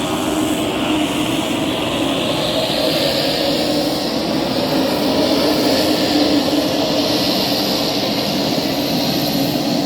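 Pilatus PC-12's single Pratt & Whitney PT6A turboprop running with steady propeller and turbine noise. A higher hiss builds about two seconds in as the sound grows slightly louder.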